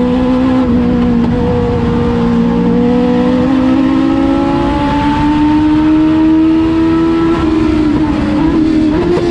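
Legends race car engine running hard at speed, a steady high-revving note whose pitch climbs slowly and evenly.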